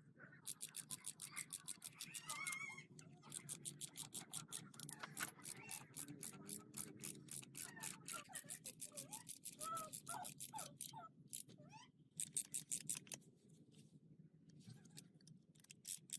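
Rapid back-and-forth scrubbing or brushing strokes, about six a second, in several runs with short pauses between them.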